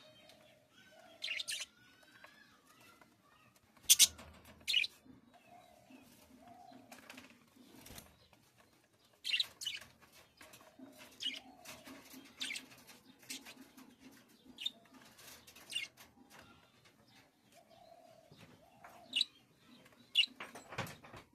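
Pet bird giving short, sharp chirps every second or two, with softer low notes in between.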